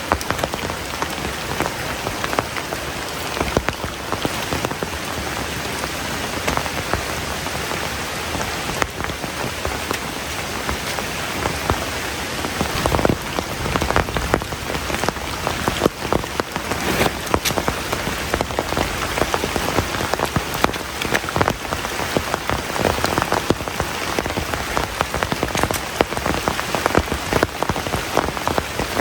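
Heavy rain falling steadily, with many sharp individual drops striking close by; the drop strikes grow denser about halfway through.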